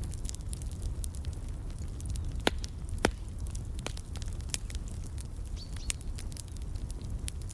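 Wood fire crackling, irregular small snaps over a steady low rumble, with two louder pops about two and a half and three seconds in. A short high bird chirp comes a little past halfway.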